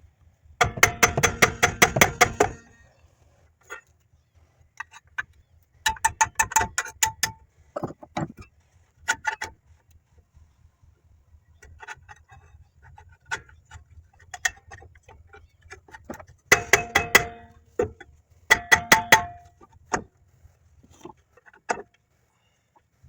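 Hand ratchet wrench clicking in quick, even runs, four runs of a second or two each with a slight metallic ring, and a few single clicks and taps of tools on metal between them.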